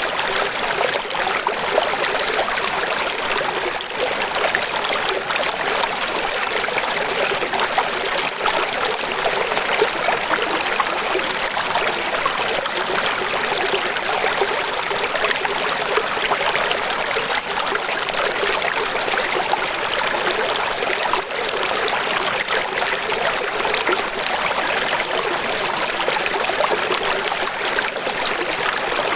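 Running water: a steady, even rush of flowing and splashing water with no deep rumble.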